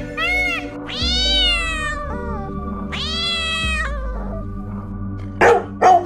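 A peacock (Indian peafowl) gives two long, loud wailing calls about two seconds apart, each rising and then falling in pitch. Near the end a dog barks twice, short and sharp.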